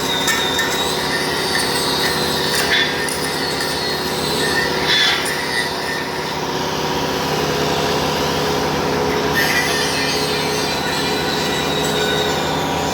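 Steady mechanical running of metalworking machinery, with a high squeal that wavers up and down and a few brief louder scrapes.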